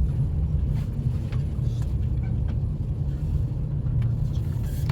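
Avanti West Coast passenger train running along the line, heard from inside the carriage: a steady low rumble with a few faint clicks.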